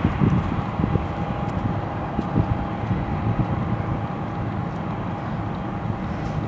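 Boeing 747-400 jet engines heard from the ground: a low, steady rumble with a faint steady whine, and gusty wind buffeting the microphone.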